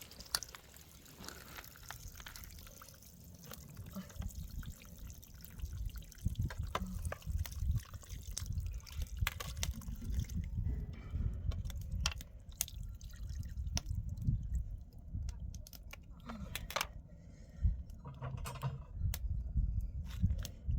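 Water splashing and dripping, with scattered light knocks and clicks.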